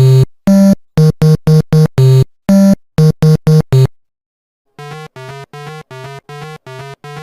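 Electronic synthesizer music: a loud jingle of about a dozen short, clipped notes in a quick rhythmic pattern that stops about four seconds in, followed by a quieter, even run of short buzzy synth beeps, about three or four a second.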